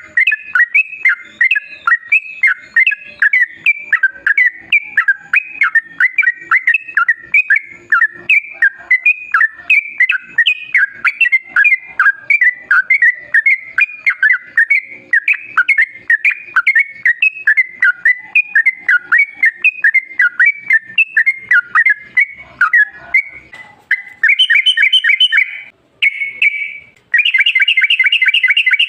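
Yellow-vented bulbul (trucukan) singing a long, fast run of bubbling chirps with hardly a pause. Near the end the song stops briefly and gives way to a faster, buzzier rattling trill.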